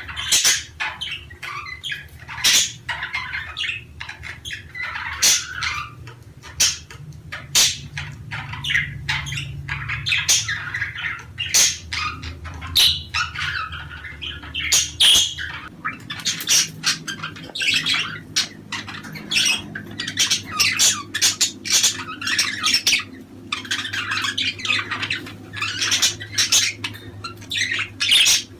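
A flock of budgerigars chattering: dense, sharp squawks and chirps with warbling calls, without pause, over a low steady hum.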